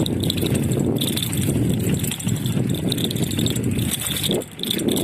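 A bicycle rattling and jolting over a rough, bumpy road, with a dense low rumble and clatter that dips briefly near the end.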